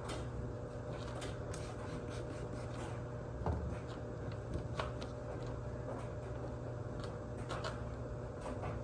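Light rubbing and scratching against a car's plastic headlight lens, as it is wiped and handled during wet-sand restoration, with a few sharp clicks, over a steady low hum.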